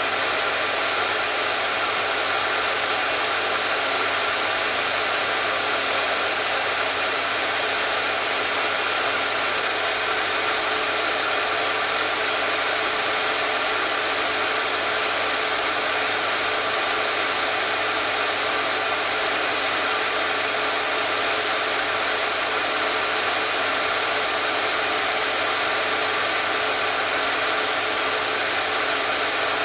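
Hair dryer running continuously, a steady, even rush of blown air with a faint motor hum, unchanging in pitch and level.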